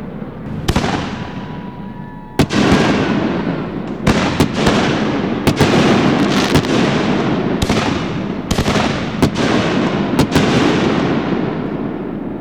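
Aerial fireworks shells bursting in quick, irregular succession, a dozen or more sharp booms, each trailing off in a long rolling echo, with a thin whistle in the first few seconds.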